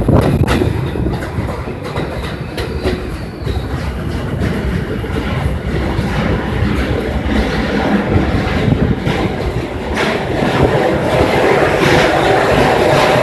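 New York City subway train running on the rails, its wheels clacking over rail joints with some wheel squeal, growing louder toward the end.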